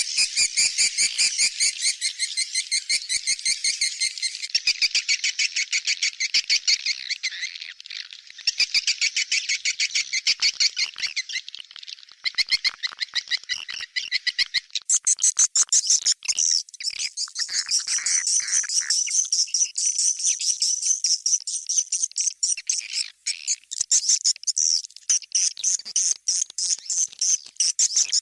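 Swiftlet call sound (suara panggil walet) used to lure swiftlets: dense, rapid, rhythmic twittering chirps repeated without a break. About halfway through, the chirping moves higher in pitch.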